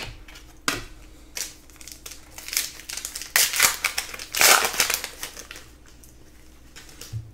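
A trading-card pack wrapper crinkling and crumpling as it is handled and torn open, in a run of rustling bursts over about four seconds, loudest just past the middle.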